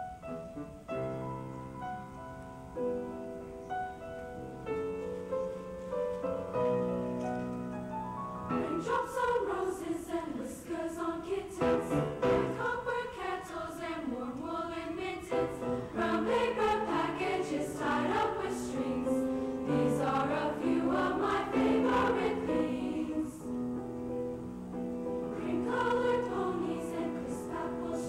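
A junior high school choir singing with accompaniment: held instrumental chords at first, then the choir comes in about eight seconds in and sings on in parts.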